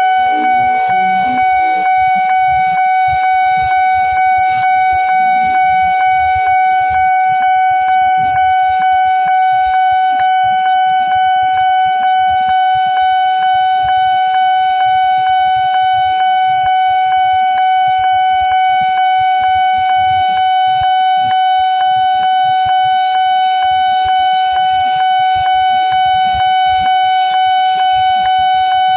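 Railway level-crossing warning alarm sounding a continuous high electronic tone with a slight regular pulse, unbroken throughout, over a low irregular rumble.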